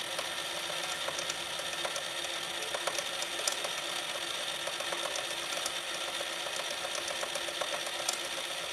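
Suzuki Gixxer FI's electric starter cranking the engine over steadily, a continuous mechanical whir with rapid fine clicking. The engine is being turned over to check that the oil pump is delivering oil.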